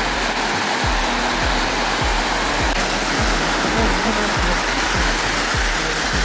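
Heavy rain pouring down, a steady loud hiss, with music under it carrying a deep bass-drum beat about twice a second.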